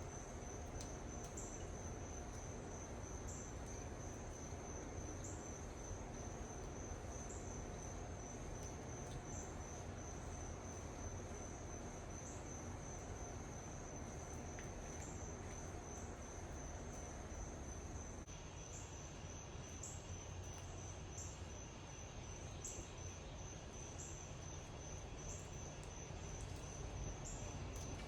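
Insects trilling outdoors, a continuous high-pitched chirring that swells slightly about every second and a half, over faint steady background noise.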